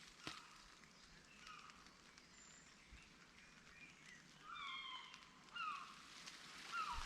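Faint birdsong: a few short down-slurred chirps, coming more often in the second half, over quiet outdoor background hiss.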